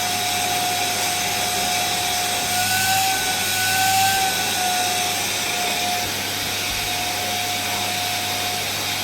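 Vacuum cleaner running: a steady motor whine over a rushing hiss of air, the pitch and loudness lifting briefly about three to four seconds in.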